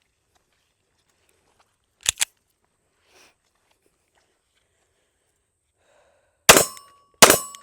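SIG P365 Rose 9mm pistol firing two shots about 0.7 s apart near the end, each with a ringing clang after it. About two seconds in there is a quieter pair of quick sharp cracks.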